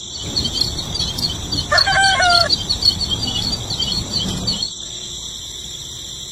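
Farmyard ambience: a rooster crows once, about two seconds in, over steady high-pitched chirping that thins out past the middle.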